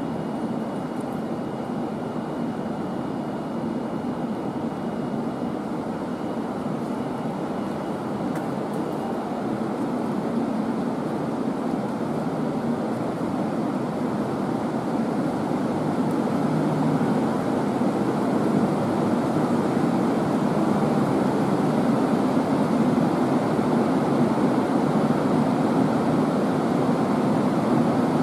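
Steady hum and hiss of an Aoimori Railway electric train at a covered station platform. It grows gradually louder toward the middle and then holds steady.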